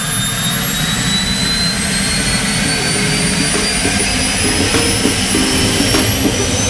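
Turbine engine spooling up: a high whine that rises slowly and steadily in pitch over a loud, steady low rumble.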